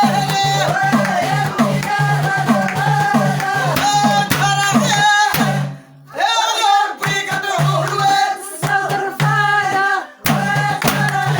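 Moroccan chaabi song: a woman's voice singing with a group over a steady beat and bass pulse about twice a second. The music drops out briefly twice, about six and ten seconds in.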